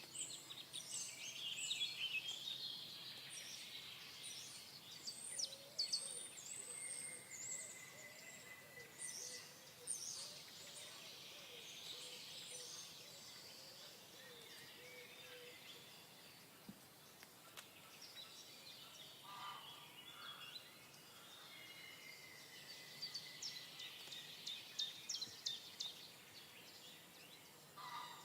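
Several wild songbirds calling at once: quick high chirps and trills, with a couple of longer held whistle notes, over a faint steady background hiss.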